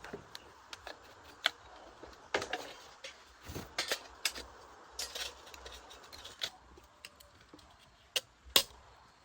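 Irregular metallic clinks, taps and clicks of hand tools and small metal parts being handled during a generator repair, with two sharper clicks near the end.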